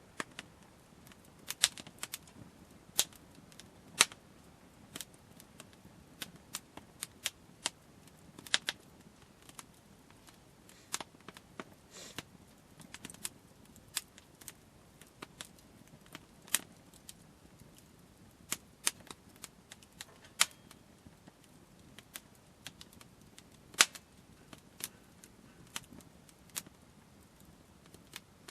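Burning firewood crackling, with sharp irregular pops and snaps, a few a second.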